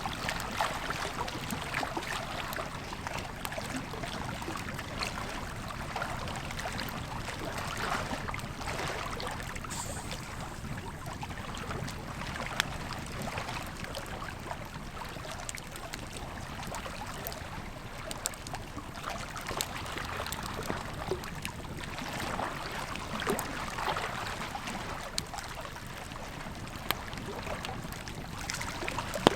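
Campfire crackling with scattered sharp pops over the steady rushing flow of a river.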